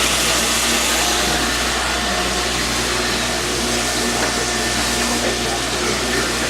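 Bottle washer running: a steady rush of pump and water spray.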